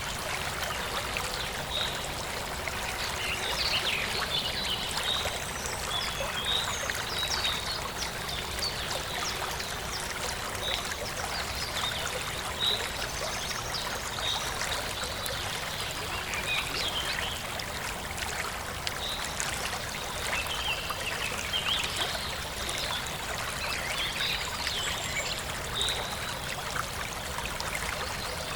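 Forest stream trickling and babbling steadily, with birds chirping over it in short, scattered calls throughout.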